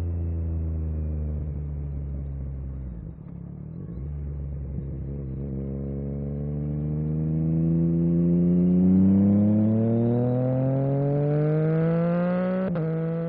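Yamaha MT-09 SP's three-cylinder engine through an Akrapovic carbon racing exhaust, holding a steady pitch, dropping off briefly about three seconds in, then accelerating with a long rising pitch. Near the end a sharp crack and a drop in pitch mark an upshift.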